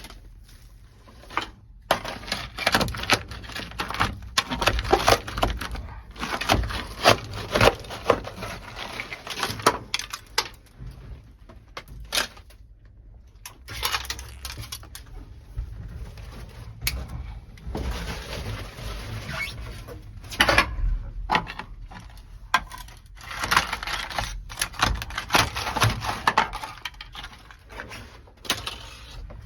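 Frozen, brittle asphalt sound-deadening mat being cracked and chipped off a car body's bare sheet metal, with sharp cracking, scraping and broken pieces clattering. It comes in irregular bursts with a couple of brief pauses.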